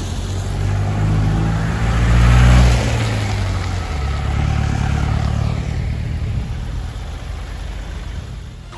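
Mahindra Bolero's diesel engine pulling on the road with tyre and road noise, swelling to its loudest about two to three seconds in, then steadier and easing off near the end.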